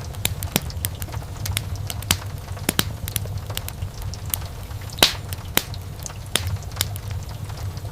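Burning wood in a fireplace crackling, with irregular sharp pops and snaps over a steady low rumble; the loudest pop comes about five seconds in.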